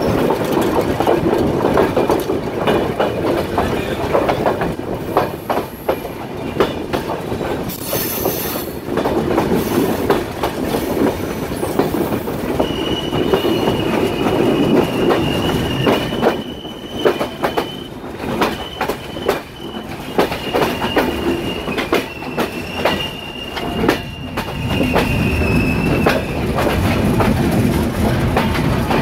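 Train moving on rails, its wheels clicking over rail joints, with a thin high wheel squeal that sets in a little before the middle and stops a few seconds before the end.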